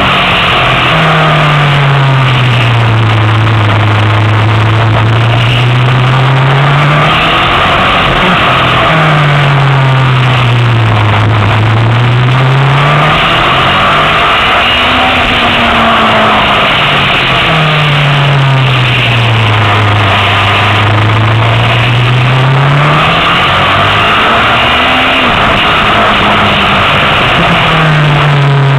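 Honda CBR1000RR inline-four engine at speed on a track, recorded from the bike itself: its note falls and climbs again in long sweeps, about four times, as the bike slows for corners and accelerates out of them, under a constant rush of wind.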